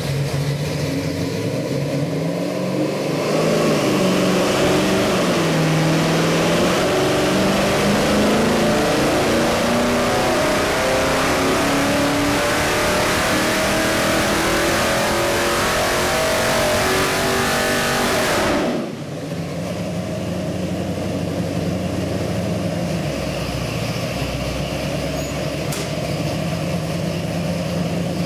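461-cubic-inch Pontiac stroker V8 on an engine dyno. It idles, then about three seconds in makes a full-throttle pull under load, engine speed climbing steadily to near 5,000 rpm. About eighteen seconds in the throttle shuts and it drops back to idle.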